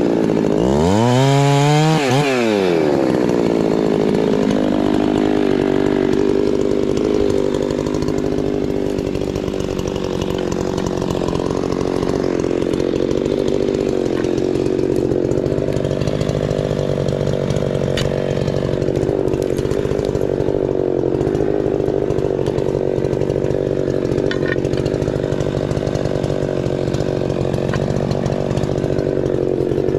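Husqvarna 390 two-stroke chainsaw revving up and down a few times, then settling about three seconds in to a steady, loud run under load as it cuts through a Douglas fir log.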